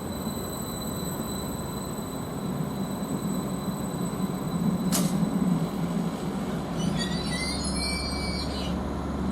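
Greater Anglia Class 755 bi-mode multiple unit running into the platform on its diesel engines, with a steady low hum. There is a single sharp knock about five seconds in and a wavering high-pitched squeal for about two seconds near the end, typical of brakes as the train draws to a stop.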